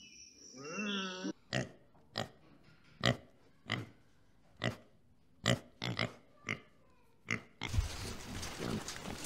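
A warthog giving a series of about a dozen short, sharp grunts, roughly one every half second to second. It opens on the tail of a drawn-out pitched animal call, and after the grunts a steady outdoor hiss takes over near the end.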